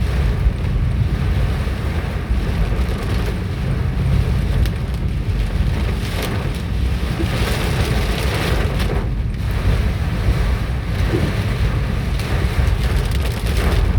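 Strong wind buffeting the microphone as a low, gusting rumble, over the steady rush of a hailstorm that swells and eases in waves.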